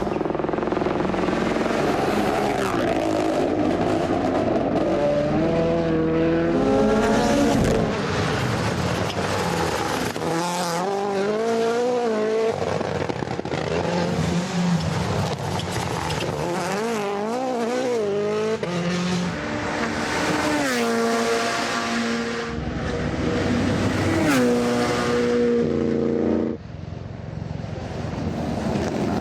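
Rally cars' engines revving hard through the gears, a run of short clips in which the pitch climbs and drops again and again, at times wavering quickly up and down as the throttle is worked.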